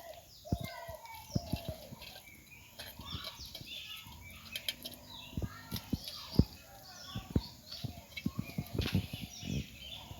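Small birds chirping throughout, with irregular sharp knocks and taps.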